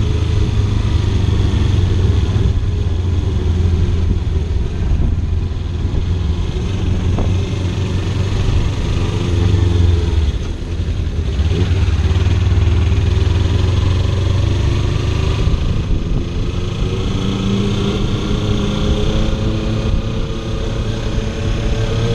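Kawasaki Ninja 300 parallel-twin motorcycle engine running under way, with heavy wind rumble on the microphone. The engine eases off about halfway through, then climbs in pitch through the last few seconds as it accelerates.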